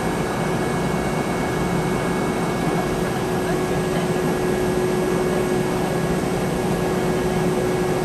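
Steady cabin noise inside a Boeing 717-200 airliner near the rear of the cabin: a constant hum with a steady high whine over it and no change in level.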